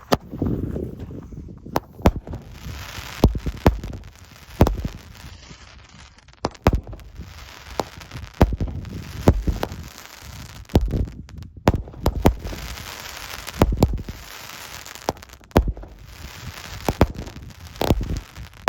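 A 16-shot consumer fireworks cake firing in sequence: sharp launch thumps and bursts about every second, with crackle filling the gaps between shots.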